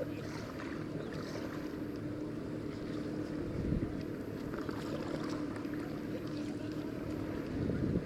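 Kayak being paddled on calm water: steady wind and water noise with a faint low steady hum and a few light paddle splashes.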